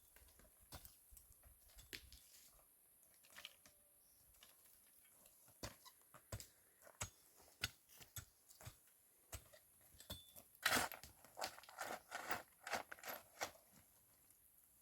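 Scattered light clicks, knocks and crunches, with a busier run of them about ten seconds in.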